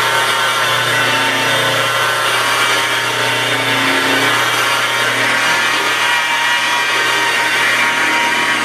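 Electric car buffer running steadily with a soft black foam pad, polishing swirl-mark remover compound into the paint: a constant motor whine over the rubbing of the pad on the paint.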